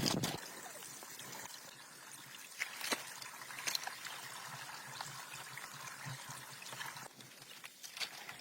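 Water trickling, with scattered light clicks and taps.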